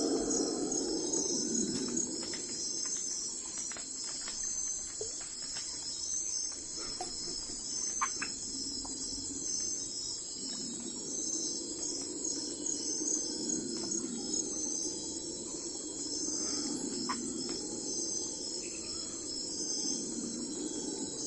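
Crickets chirping in a steady, pulsing chorus, with a low rushing sound swelling and fading underneath and a few scattered short chirps.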